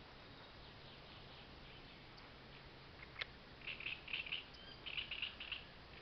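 A small bird chirping in two quick clusters of high chirps, about four and five seconds in, after a single sharp click near the middle.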